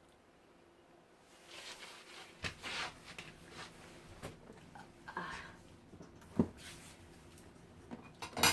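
Close-up eating sounds: chewing with scattered sharp clicks, the loudest about six seconds in and near the end.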